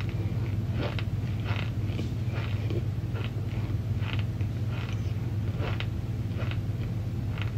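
Close-up crunchy chewing of a crunchy marshmallow snack, irregular crunches about one or two a second, over a steady low hum.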